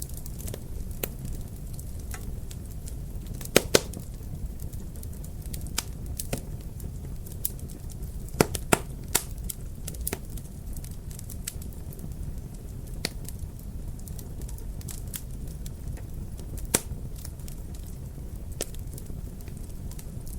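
Wood fire crackling in a fireplace: a steady low rumble of the flames with frequent irregular sharp pops and snaps, the loudest a close pair about three and a half seconds in and another pair around eight and a half seconds.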